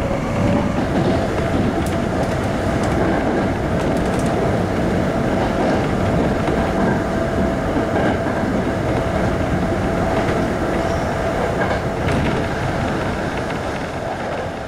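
Running noise of a Sanyo Electric Railway 5000 series electric train at speed, heard from on board: a steady rumble of wheels on rail with a faint steady tone and a few light clicks.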